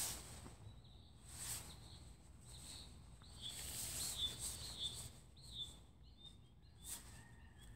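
A bird chirping over and over, short high calls coming every half second or so, among a few brief rustles and a low background rumble.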